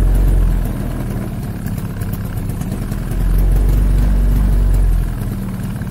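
Motorbike engine idling steadily, under a deep rumble on the microphone that swells at the start and again from about three to five seconds in.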